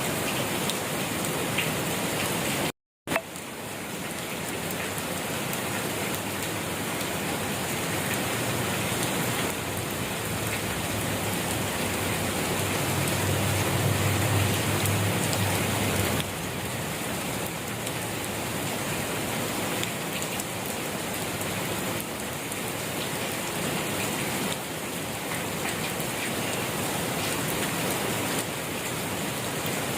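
Steady rain falling, an even hiss of drops on surfaces. The sound cuts out completely for a split second about three seconds in, and a low rumble swells briefly around the middle.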